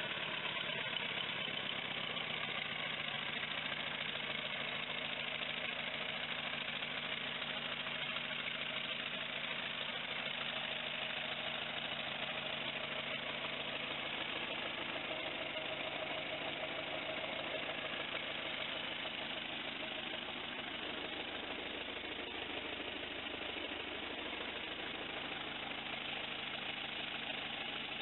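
Ford Model T engine idling steadily, with no revving.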